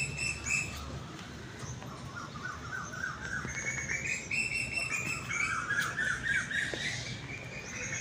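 Several small birds chirping, with rapid, overlapping runs of short notes rising and falling in pitch.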